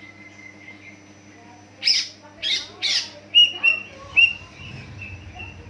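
Greater green leafbird (cucak ijo) calling: three loud, harsh chirps in quick succession, then a run of short, high whistled notes.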